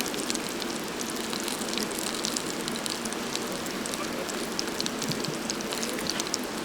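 Wood campfire burning: a steady hiss with many quick, sharp crackles.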